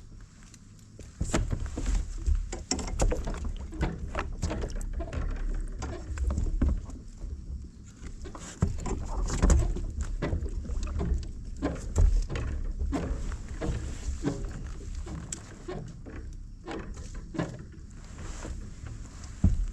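Irregular knocks, clicks and bumps of gear and hands working on a kayak, over a low rumble, with the sharpest knocks about two-thirds of the way through and just before the end.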